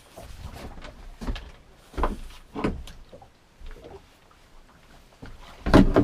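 Irregular knocks and thumps in a small boat as a freshly caught cod is landed and handled, loudest near the end.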